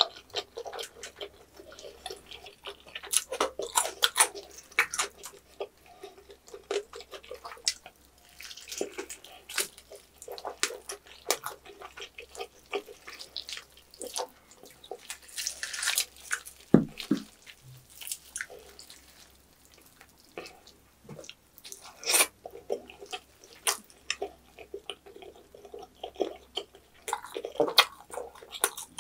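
Close-miked chewing of roast pork knuckle: many short smacks and clicks of mouth and lips, with a single knock about halfway through.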